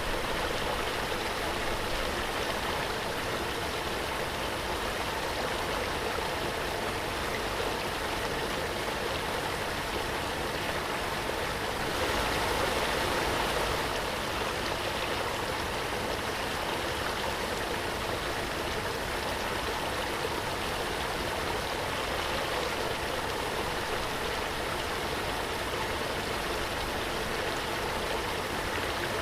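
Waterfall: steady rushing and splashing water, a little louder for a couple of seconds about twelve seconds in.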